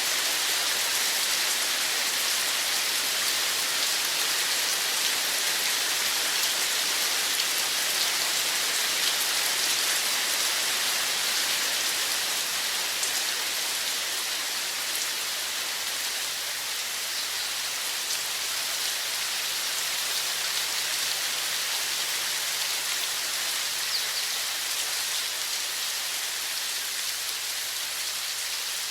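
Steady rushing of running water, a dense even hiss with no breaks.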